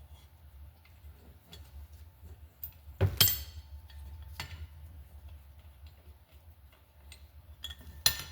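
Small metal clicks and taps of hand tools and valve parts being handled on a motorcycle cylinder head during valve removal, with two loud ringing metal clanks, one about three seconds in and one near the end, over a steady low hum.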